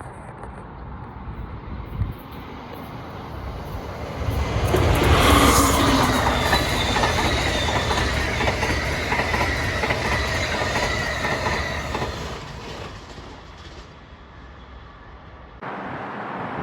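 Amtrak Northeast Regional passenger train passing on the Northeast Corridor: it rumbles in about four seconds in, is loud for several seconds with a faint high whine over the rumble, then fades away. The sound changes abruptly near the end.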